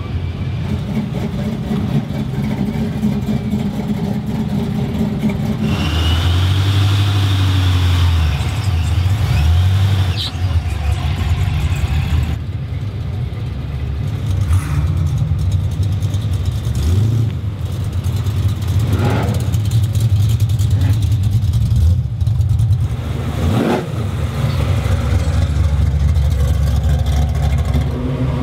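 Muscle-car engines running with a deep exhaust rumble, revved in several short rises in pitch through the second half.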